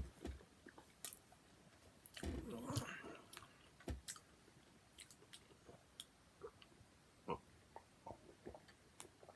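A person chewing a mouthful of a steak and cheese sub, with small wet mouth clicks and a louder stretch of biting and chewing about two seconds in.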